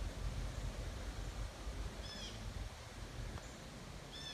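Low rumble of a short freight train running away down the track, slowly fading as it recedes. A bird calls twice over it, a short high note about two seconds in and again near the end.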